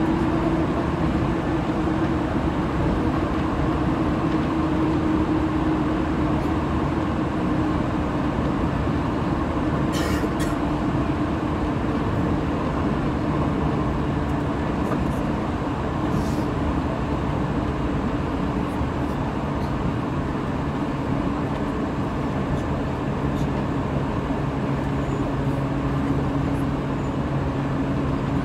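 Running noise of a JR 185 series electric train, heard from inside the passenger car at speed: a steady rumble of wheels on rail with the low hum of the traction motors. Two brief clicks are heard, about a third and about halfway through.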